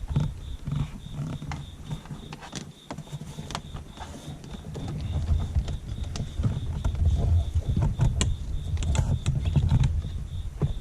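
Handling noise from working a wire down inside the car's trim: uneven rustling and rubbing with scattered sharp clicks, louder in the second half.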